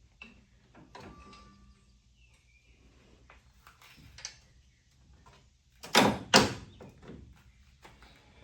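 Faint clicks and light rattles of metal parts and tools being handled, then two sharp knocks about half a second apart some six seconds in, the loudest sounds here.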